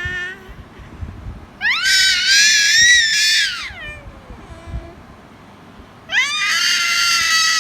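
A cat yowling: two long, drawn-out high-pitched meows about four seconds apart, each rising at the start and sliding down at the end.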